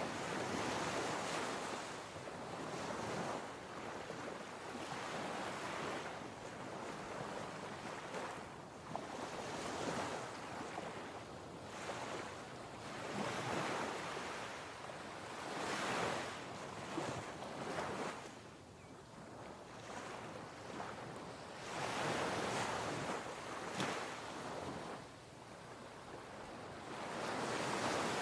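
Rushing surf-like noise that swells and fades every two to four seconds, like waves washing onto a shore, with no voice or music.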